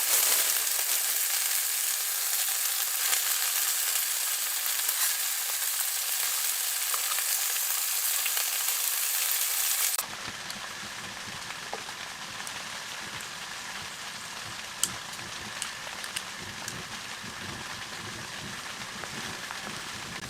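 Food frying and sizzling in a pan over a campfire, a dense steady hiss. About halfway through it cuts off abruptly, leaving a quieter low rumble with occasional sharp clicks.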